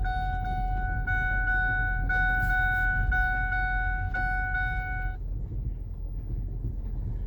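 A steady high-pitched electronic warning tone with faint regular pulses, which stops about five seconds in, over the low rumble of the truck's engine moving slowly.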